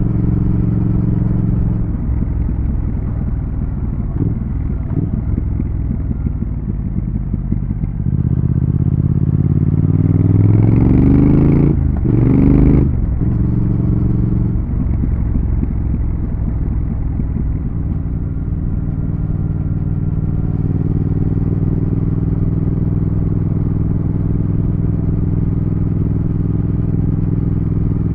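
Triumph Thruxton RS 1200 cc parallel-twin motorcycle engine running on the road, steady at first. About a third of the way in it accelerates with a rising pitch, breaks off briefly for a gear change, revs up again for a moment, then drops back. It settles into steady cruising for the second half.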